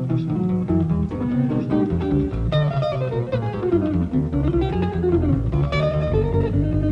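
Live jazz from a cassette tape recording, with acoustic guitar playing quick melodic runs over a bass line.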